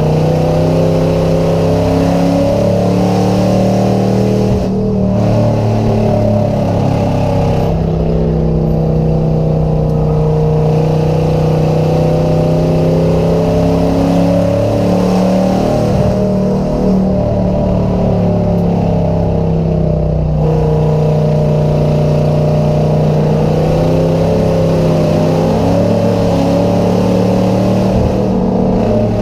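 Race car engine running hard and continuously, its pitch drifting slightly up and down as the throttle varies.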